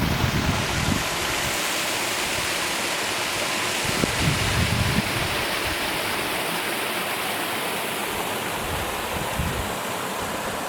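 Calf Creek rushing steadily at the top of Upper Calf Creek Falls. Wind buffets the microphone as a low rumble near the start and a couple more times later.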